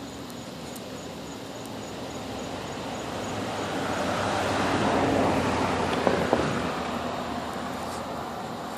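A car driving past: tyre and engine noise swells up, is loudest about halfway through, then fades away.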